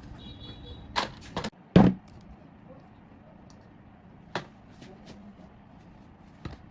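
A few sharp knocks and clicks, like tools and metal parts being handled and set down, the loudest, a heavier thump, about two seconds in, over a faint steady hum.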